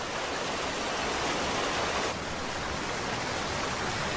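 Rushing water of a swollen river running fast, a steady even roar that shifts slightly about two seconds in.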